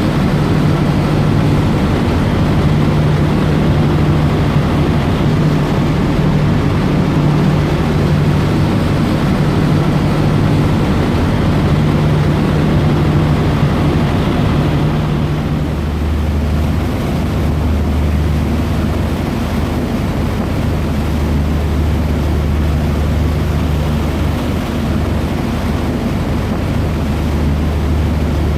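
Dubai Ferry's engines running steadily underway, a low hum with a broad rushing noise over it. About halfway through, the hum shifts to a deeper note.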